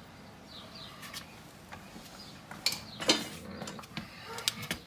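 Hands-on work noises: a rag wiping oil off the axle housing, with a few short clicks and knocks, the loudest about three seconds in.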